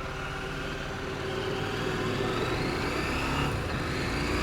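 2024 KTM 790 Adventure's parallel-twin engine, new and in its break-in period, running under way. Its note rises gradually as the bike accelerates.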